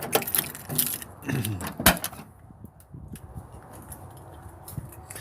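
Keys jangling and clicking against a pickup truck's door lock and latch as the door is unlocked and opened. There is a cluster of clicks and rattles in the first two seconds, with one sharp click just before two seconds in, then lighter ticks.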